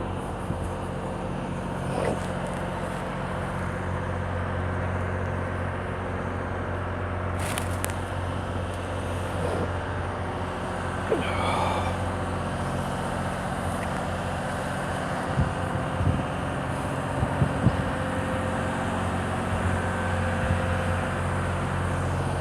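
Steady low hum of a motor vehicle's engine running, with a few faint knocks and a short high chirp partway through.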